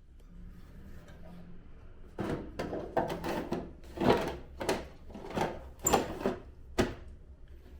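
A string of irregular knocks and clacks, about ten in a few seconds with a sharp click near the end: parts of a Daikin wall-mounted air conditioner's indoor unit being handled and fitted together during reassembly.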